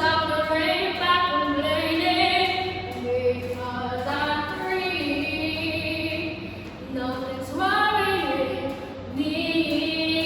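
Singing voice carrying a slow melody in long held notes, over a low steady hum.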